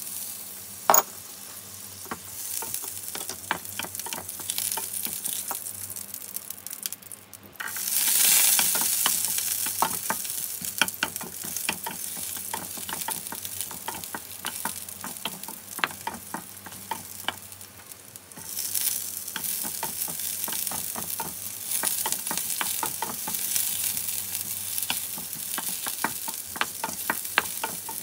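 Butter sizzling in a nonstick frying pan with garlic cloves and then sliced shallots frying in it, a spatula clicking and scraping against the pan as they are stirred. The sizzle steps up louder twice, about a quarter and about two-thirds of the way through, as more goes into the hot fat. There is a sharp knock about a second in.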